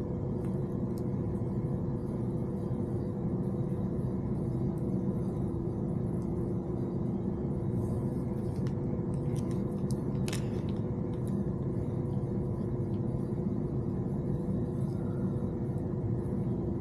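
Steady low rumble and hum that holds an even level throughout, with a few faint clicks and one sharper click about ten seconds in.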